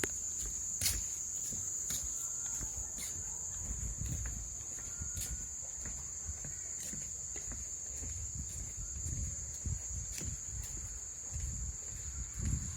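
Crickets and cicadas trilling together in one steady, unbroken high-pitched chorus, with an uneven low rumble underneath and a few faint clicks.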